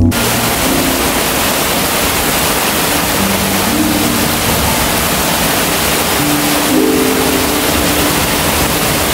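Heavy rain falling steadily, with soft background music of slow, held low notes underneath.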